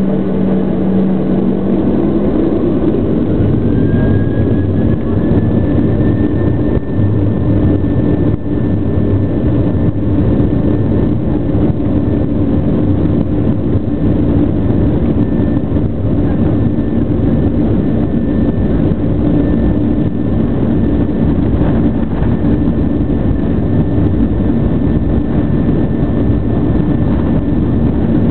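Jet airliner's engines running at takeoff power over a loud steady rumble, with a high whine that rises a few seconds in and then holds steady.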